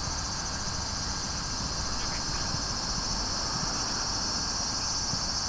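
Steady outdoor ambience: a constant high-pitched insect drone over low wind rumble on the microphone.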